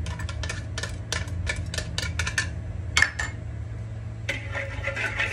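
Kitchen utensils and bowls clicking and tapping together in quick, irregular taps. From about four seconds in they give way to a rougher scraping, rustling noise.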